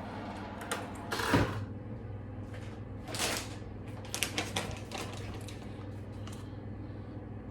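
Kitchen utensils and dishes being handled: a run of short clicks and knocks, the loudest about a second and a half in and a quick cluster of ticks around four to five seconds, over a steady low hum.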